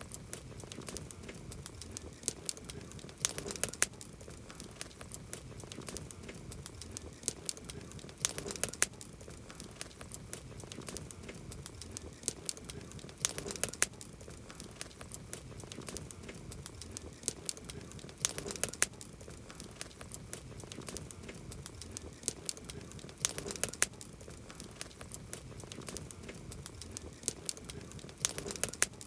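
Wood campfire crackling and popping continuously, with a cluster of louder, sharper pops about every five seconds.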